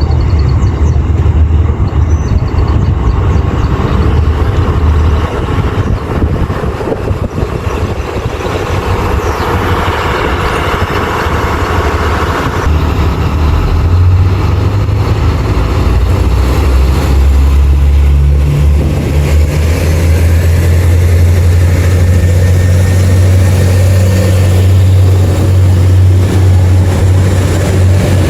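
Diesel multiple unit's underfloor engines running close by, a steady low drone that steps up in pitch about halfway through and again later, as when the train takes power.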